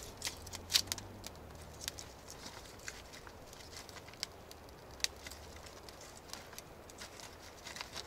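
Irregular crackles and snaps of dry sticks and twigs being handled and broken, with two sharp cracks: one near the start and one about five seconds in.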